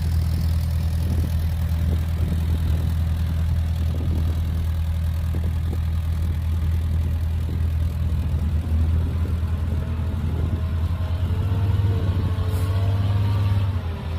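Heavy diesel engine of earthmoving equipment running with a steady low drone. A wavering higher sound joins in the last few seconds.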